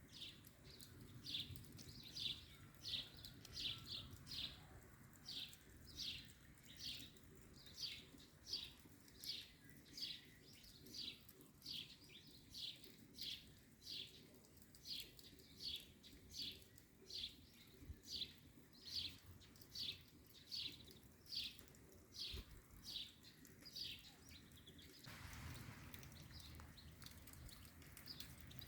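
A bird giving the same short, high call over and over at an even pace, about three calls every two seconds, which stops near the end. A faint steady hiss starts as the calls stop.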